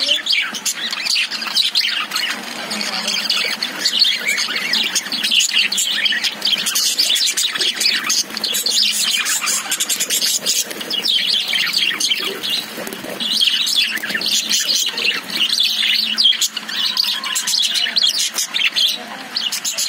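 Caged budgerigars chirping and chattering without a break, many short calls overlapping.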